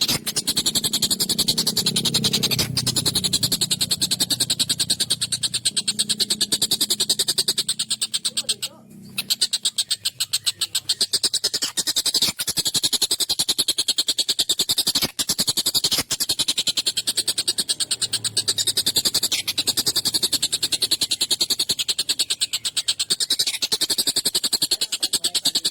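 Tengkek buto kingfisher calling in a fast, harsh, rattling trill, with a short break about nine seconds in.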